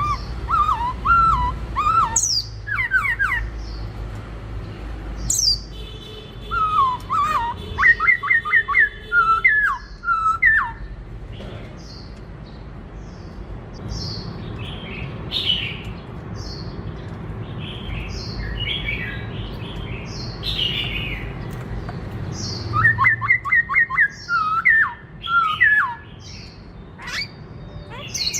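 Black-throated laughingthrush (khướu bạc má) singing: three bursts of clear looping whistled phrases, at the start, around eight seconds in and again past twenty seconds, among many short high falling chirps, with a low hum underneath.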